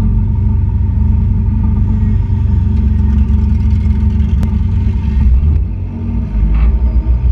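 Enduro race car engine running at a loud, rumbling idle, heard close up from the hood. The rumble dips briefly about six seconds in, then picks up again, with one sharp click a little past four seconds.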